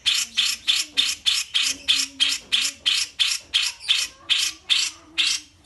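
Bulbul giving a fast run of harsh, rasping calls, about three a second, that stops near the end.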